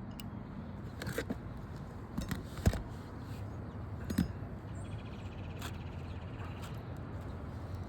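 Scattered sharp knocks and taps of a nail being driven back into a roof shingle with a roof snake nailing tool, with one loud knock about two and a half seconds in.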